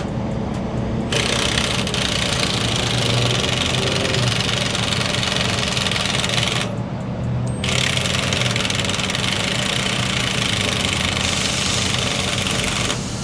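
Cordless Milwaukee impact wrench hammering on stubborn lug nuts in two long runs with a short pause between, failing to break them loose, which the owner puts down to a weak battery.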